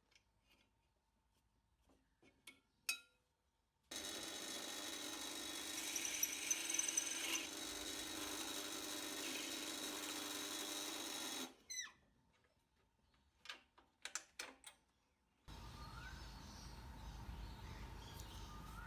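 A small electric power tool runs steadily for about seven and a half seconds, with a few clicks and taps in the quiet before and after it. Near the end a steady outdoor background comes in.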